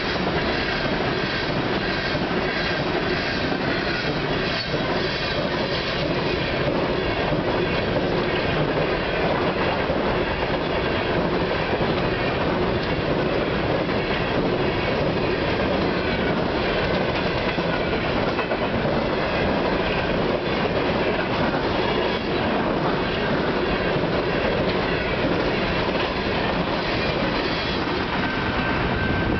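A long string of empty coal gondolas on a freight train rolling past at speed: a steady rumble of steel wheels on rail, with rhythmic clicking as the wheels pass over rail joints. A thin steady whine joins right at the end as the last car goes by.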